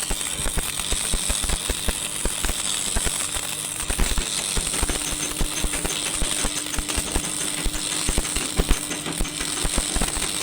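Rapid, irregular clatter of many knocks and rattles from mechanical work, with a steady hum underneath.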